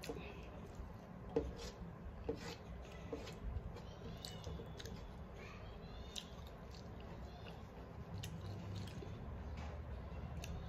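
A person chewing a mouthful of rice and curry, with wet squishing as fingers mix rice on a steel plate. Scattered small clicks and smacks run over a low steady hum, the sharpest about a second and a half in.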